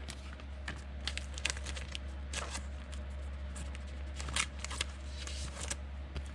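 Football trading cards being handled and slid past one another, with short, scattered soft rustles and flicks over a steady low hum.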